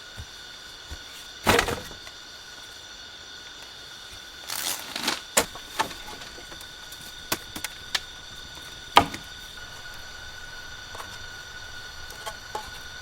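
A steady high-pitched insect drone, several fixed tones like cicadas or crickets, with a handful of sharp knocks and cracks over it. The loudest knocks come about a second and a half in and about nine seconds in, with a cluster between them.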